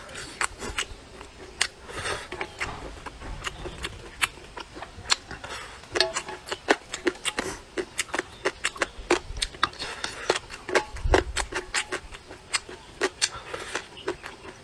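A person chewing and slurping spicy vermicelli noodles close to the microphone: many quick, irregular wet mouth clicks and smacks.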